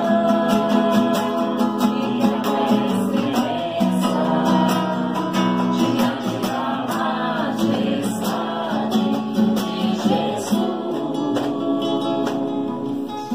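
Music: a strummed acoustic guitar with singing.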